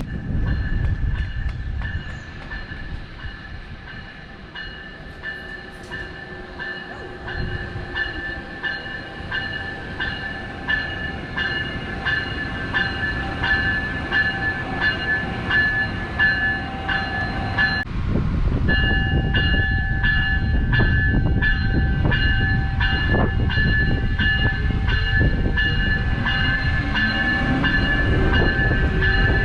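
Train running past on the rails: a steady rumble with a continuous high-pitched whine and rhythmic clicking of wheels over the track. There is a brief break about 18 seconds in, after which it is louder.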